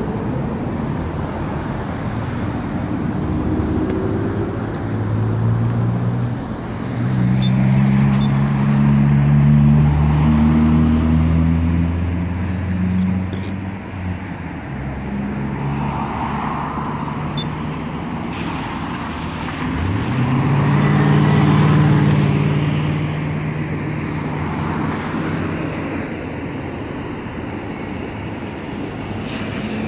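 Street traffic: vehicles passing on a busy road. Two louder engines go by, the first about a quarter of the way in and the second about two-thirds in, which starts with a rising pitch as it accelerates.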